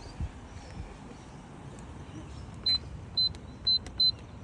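Four short, high electronic beeps at uneven spacing in the second half, like buttons being pressed, over a steady low outdoor rumble.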